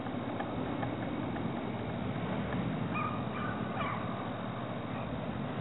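A bird calling a few short times about three seconds in, over a steady low rumble.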